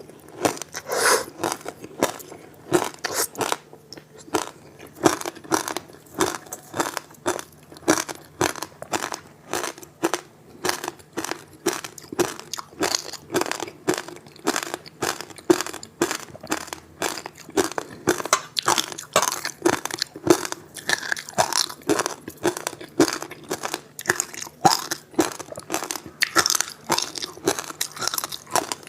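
Frozen passion fruit ice with sesame seeds being bitten and chewed: a steady run of crisp crunches, about two to three a second.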